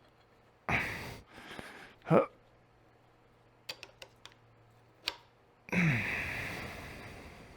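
Two long, breathy exhales of air, the second fading away over a couple of seconds, with a short grunt between them and a few light clicks of metal fork parts being handled.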